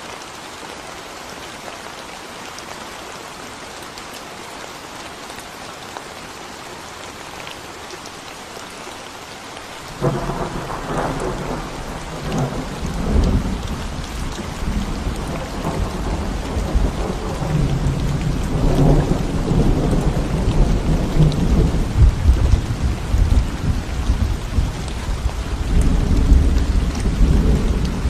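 Steady rain falling on a concrete road. About a third of the way in, a loud low rumble of thunder sets in abruptly and keeps rolling, swelling and easing over the rain.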